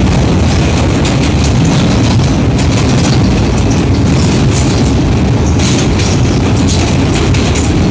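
Train running across a steel truss rail bridge: a loud, steady rumble with frequent clacking of the wheels on the rails.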